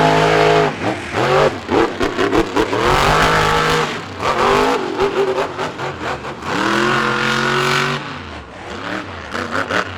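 Monster truck engines revving hard. They hold at high revs in three long pulls, at the start, about 3 s in and about 7 s in, with quick rising and falling rev blips between.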